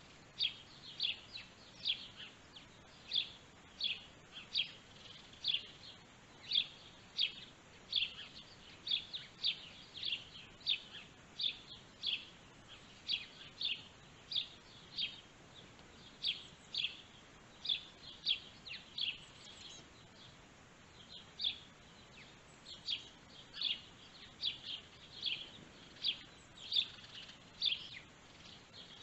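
A bird chirping over and over, short high chirps about two a second, with a short break a little after two-thirds of the way through.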